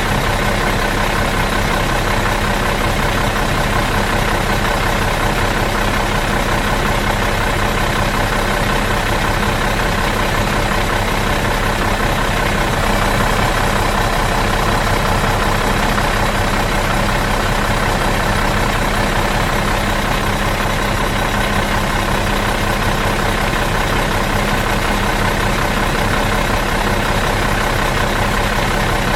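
Bus engine idling steadily in neutral, an even, unchanging hum with no revving.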